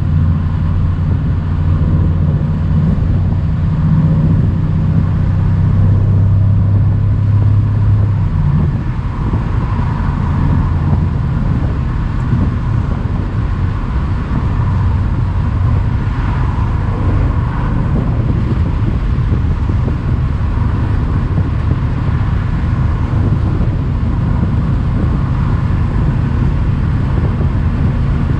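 Mercedes-AMG C63's twin-turbo V8 running under way on a country road, a steady low drone for the first eight seconds or so, then easing off to a softer note, over road and wind noise.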